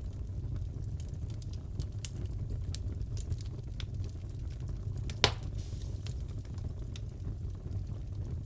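Fireplace fire crackling: a steady low rumble of flame with scattered small crackles, and one loud sharp pop about five seconds in.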